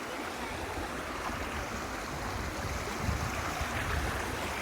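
Creek water running steadily over rocks, with low rumbles about three and four seconds in.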